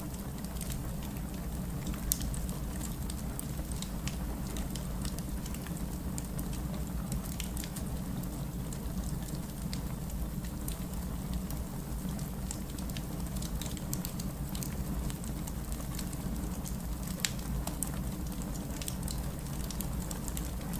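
Wood fire burning in a fireplace, with a steady low rumble of the flames and a constant scatter of small crackles and snaps, a couple of louder pops standing out.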